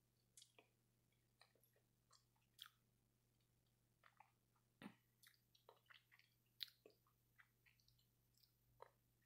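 Quiet chewing of seaweed: scattered, irregular small clicks and crackles from the mouth, a couple of louder ones near the middle.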